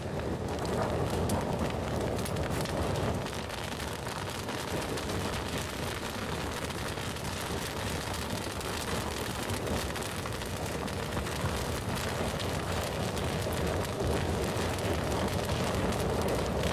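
Wood bonfire burning, a steady rushing hiss with many small crackles and pops scattered throughout.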